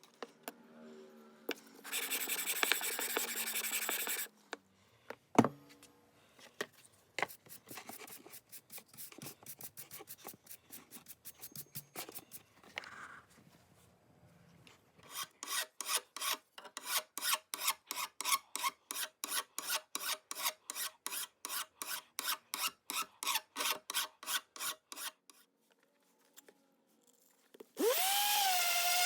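Cast-iron sole of a Stanley Bailey No. 5 jack plane being rubbed back and forth on abrasive paper to flatten it, in runs of quick, even scraping strokes. Near the end a small motor spins up with a rising whine, then runs steadily.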